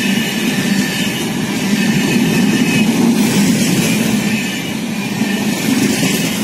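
Passenger coaches of an express train running through a station without stopping: a steady rumble of wheels on the rails with a rushing hiss.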